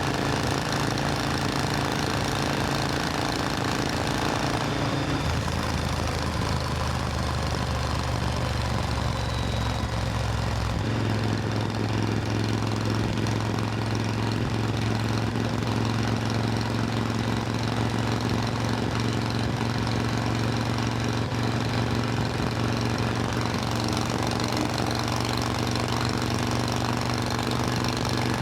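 Supercharged Triumph Thunderbird Storm parallel-twin engine running steadily; its note steps to a new steady pitch about five seconds in and again about eleven seconds in.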